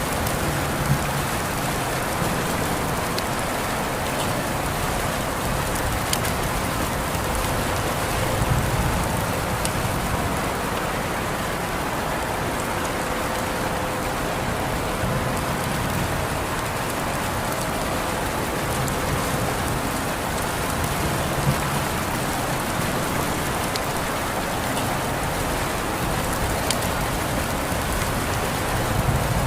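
Steady rain falling and pattering on surfaces, an even dense hiss with occasional sharper drop ticks.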